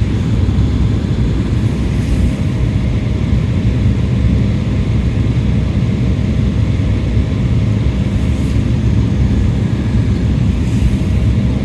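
Jet airliner cabin noise in flight: a steady, loud rumble of engines and airflow with a faint constant hum above it.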